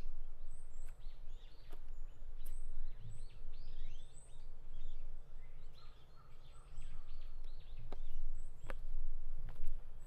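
Small birds chirping, many short quick calls in busy runs, with a few high thin notes among them. Occasional sharp footstep clicks under a low steady rumble.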